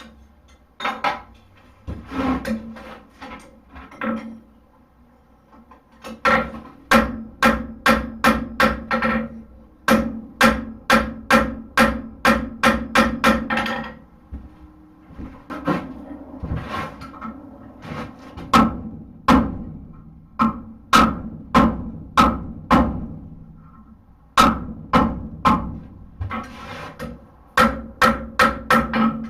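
Blacksmith's hammer striking hot steel on an anvil, forging a horseshoe into a hoof pick. The blows come in runs of about three a second, each with a metallic ring, broken by short pauses between runs.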